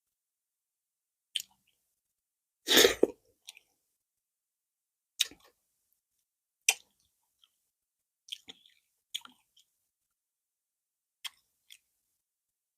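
Close-miked eating of carrot fufu with okra soup: scattered wet mouth clicks and chewing sounds, about eight short separate ones, with one louder, longer noise a little under three seconds in.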